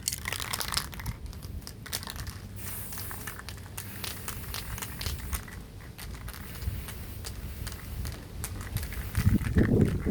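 Crinkling and crackling handling noise with many irregular clicks, and a louder low rumble near the end.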